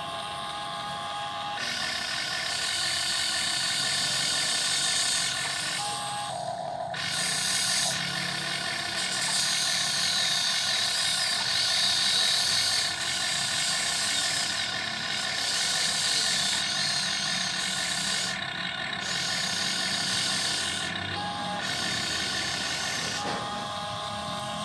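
RC model excavator's small electric gear motors whining, with gear clatter, as the arm and bucket are worked. The whine shifts in pitch and loudness several times as different motors start and stop.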